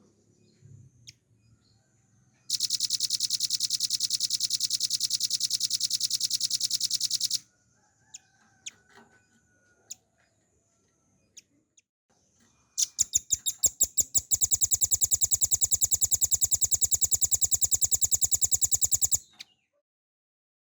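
Velvet-fronted nuthatch singing two long, fast, even trills of high notes, each about five to six seconds long. The second trill opens with a few spaced notes before they run together.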